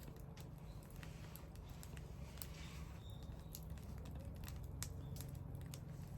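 Bonfire crackling: irregular sharp pops and ticks of varying loudness over a steady low rumble.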